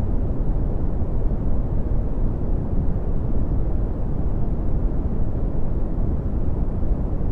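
Red (Brownian) noise: a steady, even noise with most of its energy deep in the bass, falling away steeply toward the treble, with no changes.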